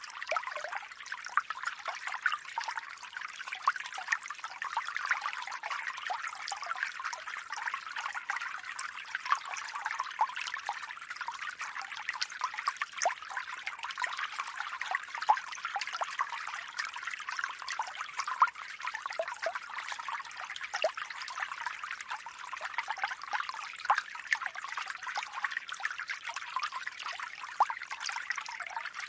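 Water trickling and splashing steadily down a small foam-and-cement rock waterfall into a water tank.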